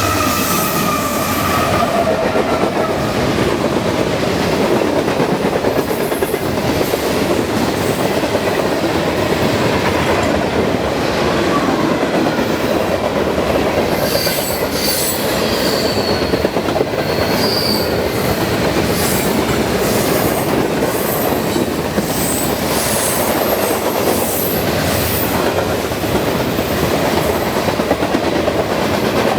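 Train cars rolling past at close range: a steady, loud rumble of wheels on rail with clickety-clack over the rail joints. High-pitched wheel squeal and repeated clicks join about halfway through.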